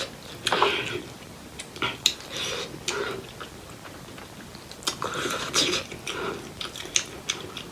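Close-miked eating sounds of spicy pork leg curry with rice: chewing, smacking and sharp wet mouth clicks in irregular bouts.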